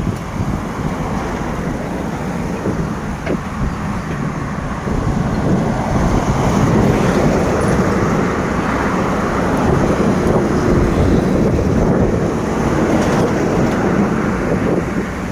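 Road vehicle noise from driving, with wind buffeting the microphone. It grows louder about five seconds in.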